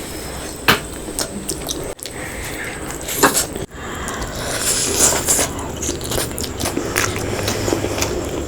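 Close-miked eating: chewing and crunching with sharp clicks and wet, squishy mouth sounds.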